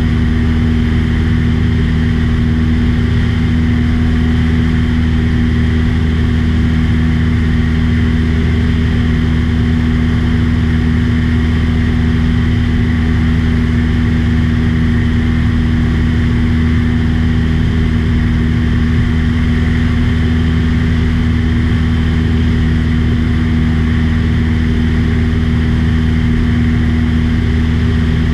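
Light aircraft's engine and propeller droning steadily at cruise, one low, unchanging hum.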